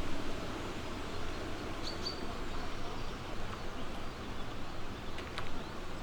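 Songbird giving two short high chirps about two seconds in, over a steady low rushing background noise.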